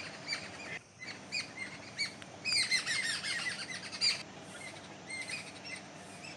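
Small birds chirping in quick series of short, high calls, coming in clusters with brief pauses between them.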